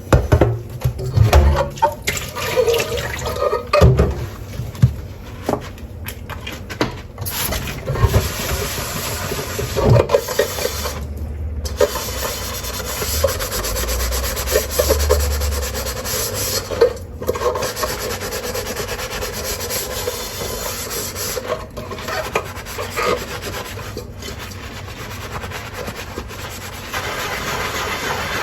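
Dishes being washed by hand: a sponge rubbing and scrubbing, with sharp knocks of dishes set down or against each other over the first half. After that a steady rush of running tap water continues under the scrubbing.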